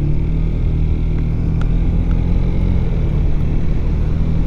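Motorcycle engine running steadily while riding, a low even drone with road noise.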